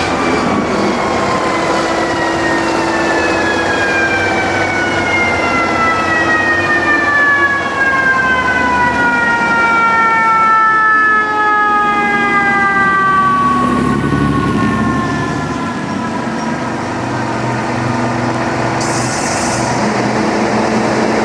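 Fire apparatus mechanical siren wailing, its pitch falling slowly and steadily as it winds down, over the low rumble of the truck. A brief hiss near the end.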